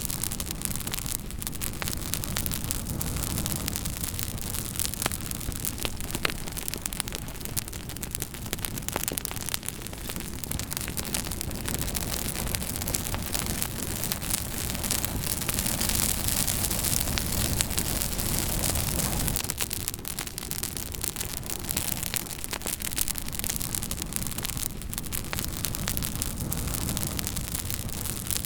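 Campfire burning, with frequent sharp crackles and pops of burning wood over a steady rushing noise.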